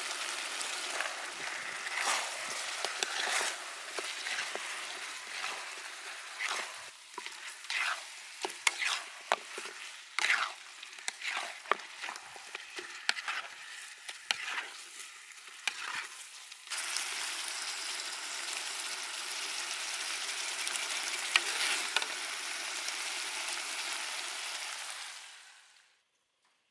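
Pig feet in red pepper paste sauce sizzling in a steel wok while a ladle stirs them, clicking and scraping against the pan. The clicks stop about two-thirds of the way through, leaving a steady sizzle that fades out near the end.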